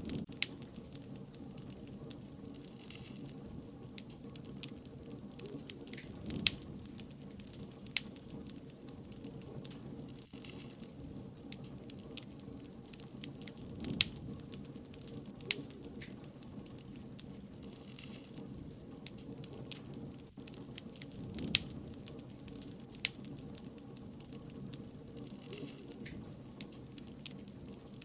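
Bonfire crackling: burning wood gives irregular sharp pops and snaps, several a second, over a steady low rush of the flames.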